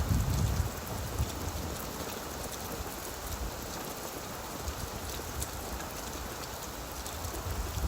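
Steady rain falling on leaves, with fine scattered drop ticks. A low rumble fades out within the first second.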